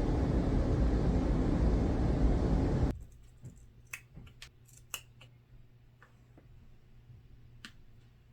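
A loud, steady rushing noise for about three seconds that cuts off abruptly, then a series of small scissors snipping duct tape: short, sharp clicks spread over the next few seconds.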